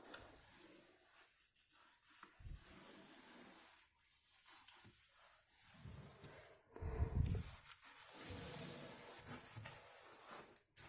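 Wallpaper glue being spread over fibreglass wallcovering on a wall: a soft wet rubbing, swishing sound in repeated strokes with short pauses between them.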